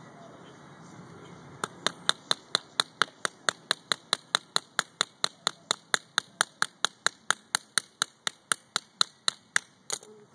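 Hammer tapping a nail in with quick, even strokes, about four a second, starting a second and a half in.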